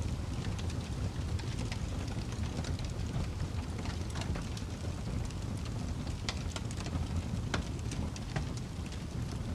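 Wood fire burning in a fireplace, crackling with frequent sharp, irregular pops over a steady low rumble of flames.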